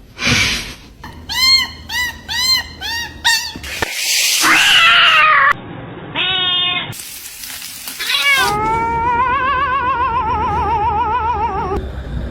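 Domestic cat vocalising: a quick run of about six short, arched meows, then a harsh, noisy yowl, and near the end one long wavering yowl of about three seconds.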